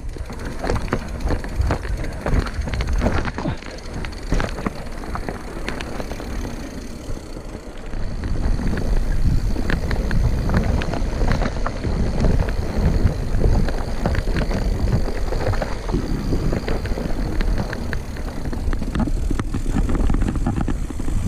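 Mountain bike riding over a rough trail: a low rumble of tyres with frequent knocks and rattles from the bike, louder from about eight seconds in.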